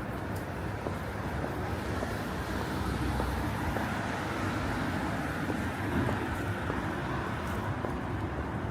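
Steady city street ambience dominated by a continuous traffic rumble.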